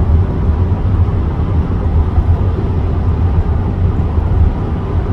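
Steady low rumble of a car driving at road speed, heard from inside the cabin: engine, tyre and road noise with no distinct events.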